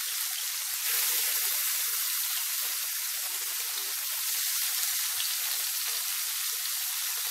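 Masala-coated prawns sizzling in hot coconut oil in a frying pan: a steady, crackling hiss that gets louder about a second in, with more prawns being laid into the oil.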